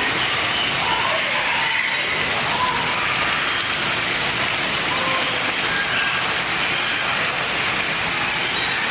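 Steady rushing noise like running water, with a few faint short high calls over it.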